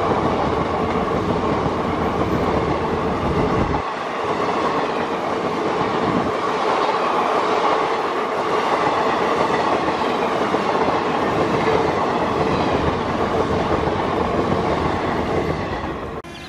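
Passenger coaches of a departing express train running past close by: steady wheel-on-rail noise. The deepest rumble thins out about four seconds in, and the sound cuts off suddenly just before the end.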